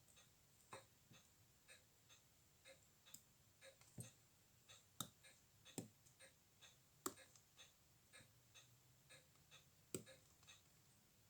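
Faint, regular ticking about twice a second, with louder single small clicks every second or two.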